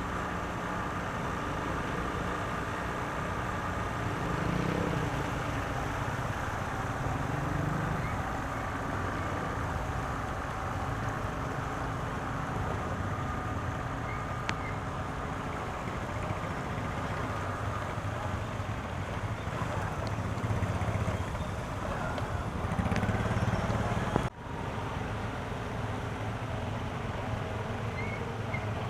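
Steady motor-vehicle engine and traffic noise with some wind on the microphone, cutting out briefly about three-quarters of the way through.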